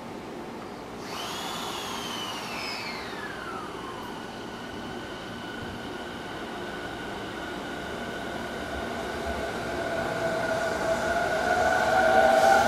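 A JR 209 series electric train pulling away from a station, its inverter-driven traction motors whining. About a second in, a whine starts and glides down over about three seconds. Then steady tones and a rising whine grow louder as the train gathers speed.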